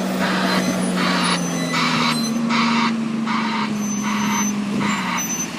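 A vehicle's broadband reversing alarm, pulsing hiss at about one and a half pulses a second, over a steadily running diesel engine whose pitch lifts a little partway through.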